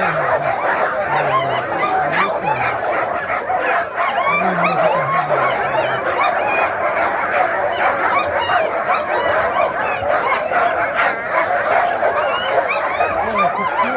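A pack of sled dogs barking, yipping and whining all at once in a continuous din: excited dogs clamouring to be chosen to run.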